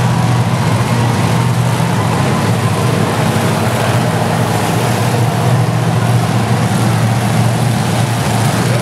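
Monster truck engines running steadily, a loud low drone with no revving.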